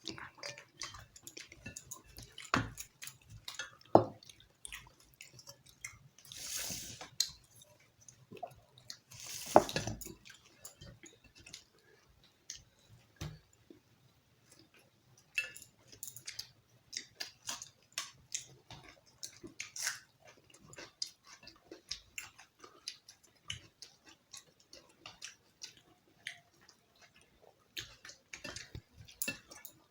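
A person chewing and eating roti with chicken curry, with many small wet mouth clicks and two longer noisy sounds about a third of the way in.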